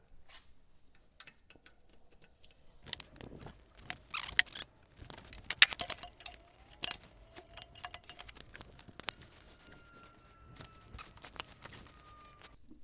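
Hand tools and loose bolts clicking and clinking on metal in irregular bursts as the flywheel cover comes off a Polaris Ranger's engine.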